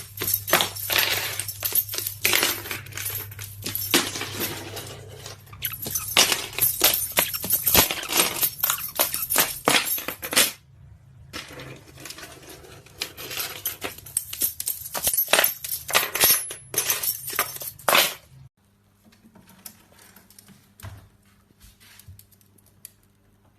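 Rapid, irregular clinking and rattling of small hard objects, like coins or metal pieces being knocked about. It stops abruptly about three-quarters of the way through, leaving a faint steady hum and a few light clicks.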